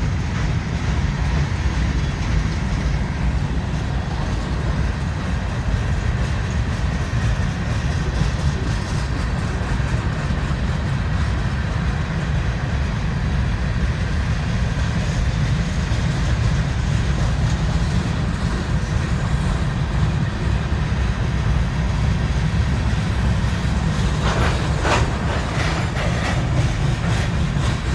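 CSX freight train rolling past close by, a steady low rumble of car wheels on the rails, with a brief metallic clatter near the end.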